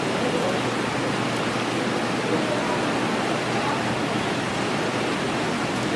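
A steady rushing noise holds at an even level, with faint voices murmuring behind it.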